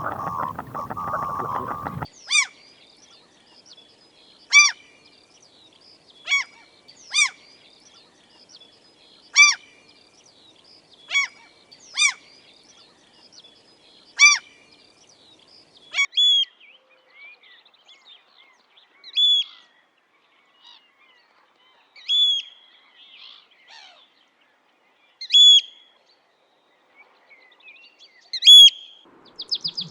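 Wild birds calling: short, separate calls with overtones repeat every one to two seconds. About halfway through, the call changes to a different, higher note that hooks at the top, and a brief rapid trill comes in just before the end. A rushing noise fills the first two seconds.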